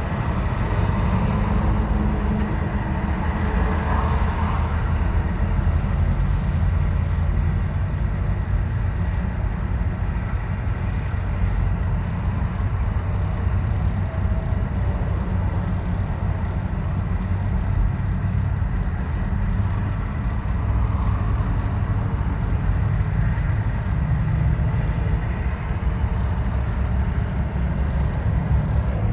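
A vehicle running steadily, with a continuous low rumble.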